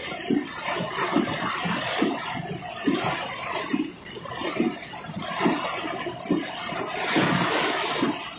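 Heavy wind-driven rain and strong gusts of a severe thunderstorm lashing a vehicle: a rushing water noise that surges and eases irregularly.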